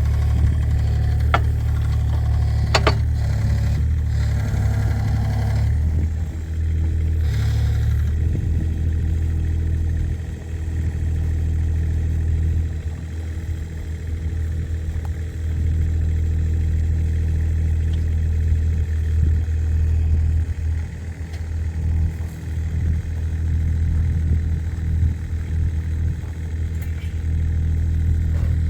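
Kubota mini excavator's diesel engine running steadily, with a few sharp metallic clicks in the first few seconds and the engine note shifting briefly about six and eight seconds in.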